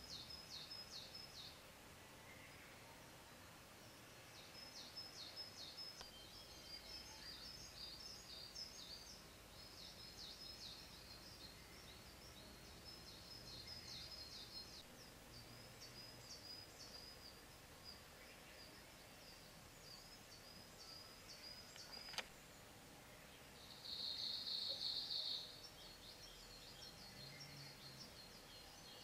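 Faint, rapid birdlike chirping, repeated in short trills, with a louder high note lasting about a second and a half near the end.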